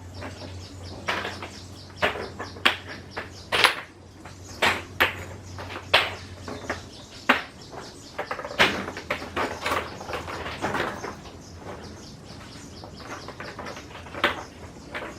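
Irregular sharp clicks and knocks, one every half second to a second, over a low steady hum that stops about seven seconds in.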